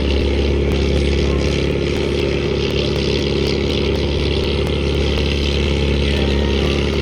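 Pulling tractor's engine running at a steady pitch and level.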